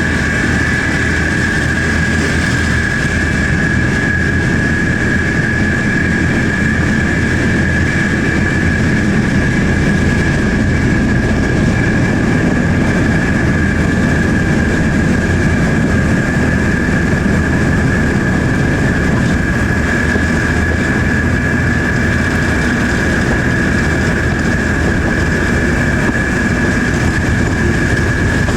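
Diesel locomotive engine running steadily, heard from the train it is hauling: a low rumble with a steady high whine over it.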